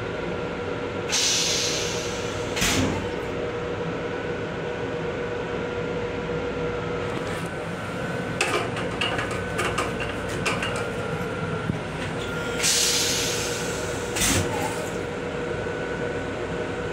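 Steady running hum of a Metro-North M7 electric railcar heard inside its restroom, with faint steady tones in it. There are two brief hisses, about a second in and about three-quarters of the way through, each followed by a sharp knock, and a run of clicks and rattles around the middle.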